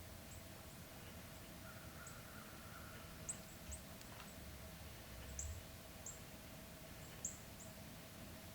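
Quiet evening woods: scattered short, very high-pitched bird chirps, about a dozen at irregular spacing, over a faint steady hum.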